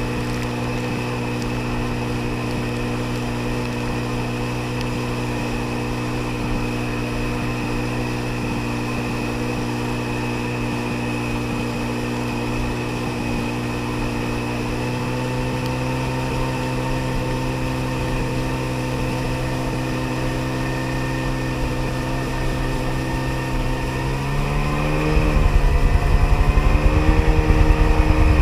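1994 Sea-Doo XP jet ski's two-stroke engine running at a steady cruising speed, then, about 24 seconds in, the engine pitch wobbles and rises as the throttle is opened and the sound gets clearly louder.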